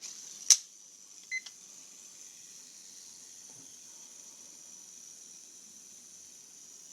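Shimano Curado 200BSF baitcasting reel's unloaded spool spinning freely on new Boca Bearing orange seal ABEC 7 bearings, a steady faint high-pitched whir during a free-spool spin test. A sharp click about half a second in and a short electronic beep just after it, from a timer.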